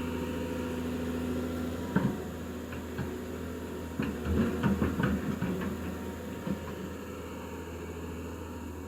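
A heavy diesel machine's engine running steadily, with a metallic clank about two seconds in and a rattling cluster of clanks and knocks around the middle.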